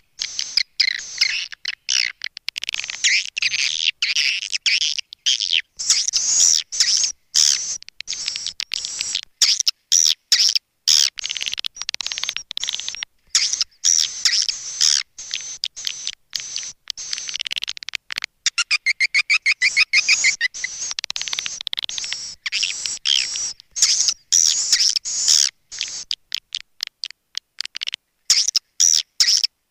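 Swiftlet calling sound: rapid, dense chirping and twittering throughout, with a run of evenly spaced clicks about two-thirds of the way through. It is the kind of call track played to lure swiftlets into a nesting house.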